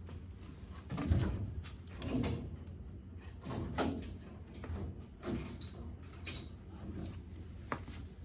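A string of irregular metallic clunks and knocks from work on a pickup truck's bed, the loudest about a second in, over a steady low hum.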